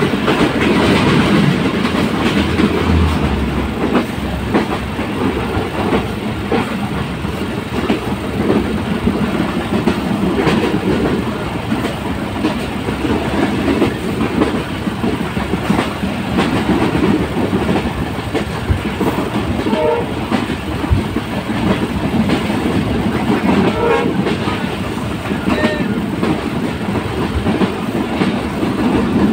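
Passenger train running along the track, heard from aboard: a steady rumble with the clatter of wheels over the rails.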